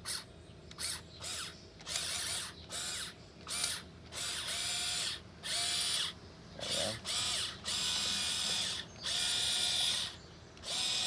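Electric gear motors of a 1580 RC excavator whining in about a dozen separate bursts as the machine is worked while digging. Some bursts are short blips and some are held for a second or more, each opening with a brief rising whine.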